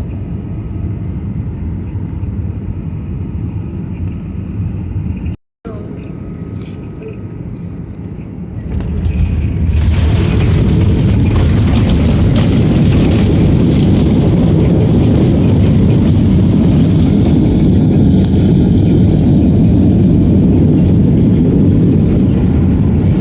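Airliner cabin noise on a Boeing 737 MAX 9 landing: a steady engine and airflow drone, a brief gap in the sound about five seconds in, then from about nine seconds a much louder, even roar that builds and holds. The roar is typical of the CFM LEAP-1B engines going into reverse thrust with the wheels rumbling on the runway after touchdown.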